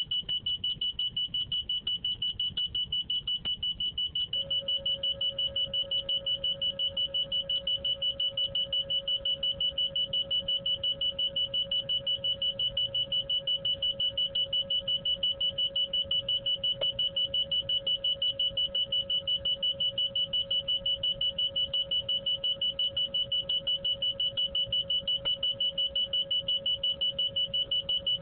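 Electronic alarm sounding a high-pitched tone in rapid, evenly spaced beeps that never let up. A second, lower tone joins about four seconds in.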